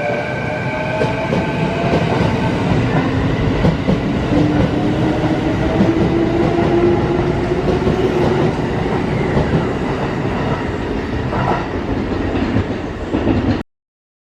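Kintetsu electric train gathering speed, its motor whine rising slowly in pitch over a steady rumble of wheels on rail. The sound cuts off suddenly near the end.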